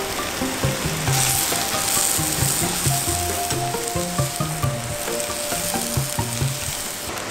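A meal-kit stir-fry sizzling in a pan, the hiss growing louder about a second in, with background music playing over it.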